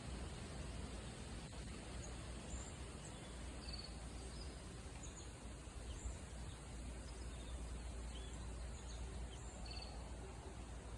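Outdoor nature ambience: a steady, even hiss with a low rumble under it. Short, high bird chirps come and go throughout.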